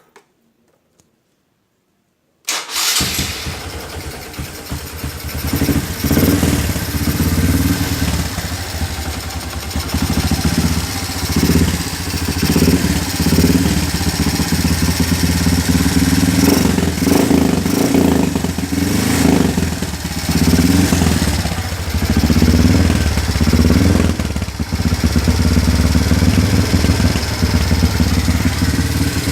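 Honda Kharisma motorcycle's single-cylinder four-stroke engine, breathing through its original muffler with the baffles gutted, starting about two and a half seconds in and then idling. The throttle is blipped over and over, so the exhaust note swells louder and drops back every second or two, before settling into a steadier, louder run near the end.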